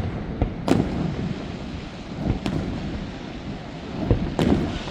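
Fireworks bursting overhead: about five sharp bangs, each trailing off in a rumbling echo, the loudest about a second in and near the end.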